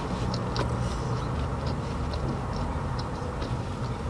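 Chewing a mouthful of apple fritter, with short soft mouth clicks, over a steady low hum inside a car.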